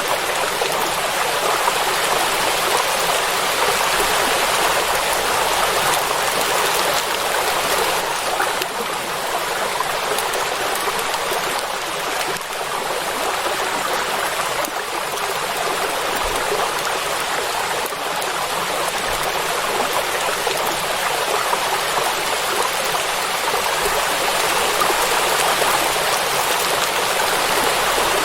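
Steady rain falling on water, a dense even patter without let-up.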